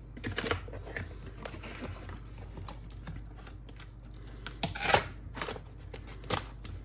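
Boxes and packaging being handled and set down: scattered clicks, taps and short rustles, the loudest about five seconds in.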